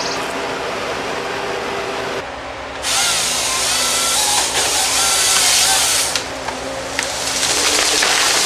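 Rhythmic sound collage cut from sampled woodland sounds: a fast, buzzing, machine-like pulse under loud bursts of rushing noise that start about three seconds in, with short chirping glides over them.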